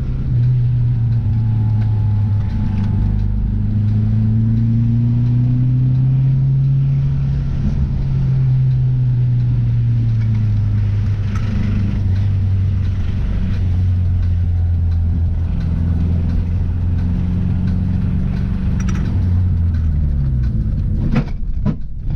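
Car engine running under way with road noise, its pitch slowly rising and easing off, then falling near the end as the car slows. A few sharp knocks sound about a second before the end.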